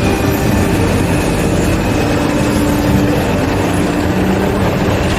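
Jet engine on a monster truck running steadily and loudly, a dense roar with a steady high-pitched whine over it.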